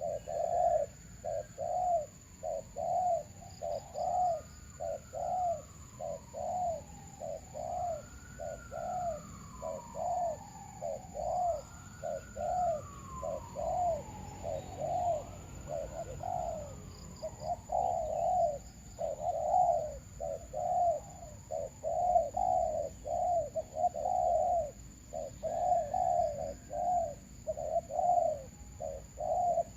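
Doves cooing, short even coos about two a second, in a steady run. From about four to sixteen seconds in, several longer calls rise and fall in arcs above them, and there are faint high chirps twice.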